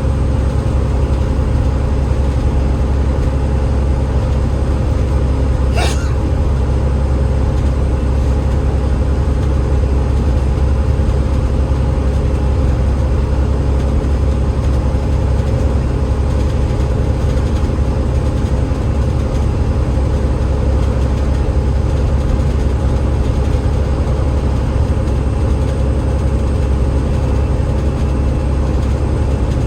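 Enviro500 MMC double-decker bus's Cummins ISL8.9 diesel engine running at a steady pace with its ZF EcoLife automatic gearbox, a loud even low drone with road noise. A brief sharp click about six seconds in.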